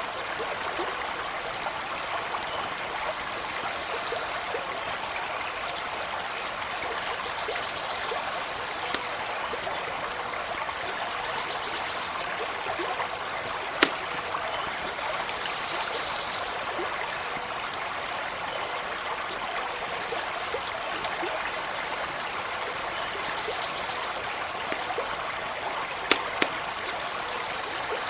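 A brook runs steadily with a continuous rushing and trickling, broken by a few sharp campfire pops and crackles. The loudest pop comes about halfway through and two more come close together near the end.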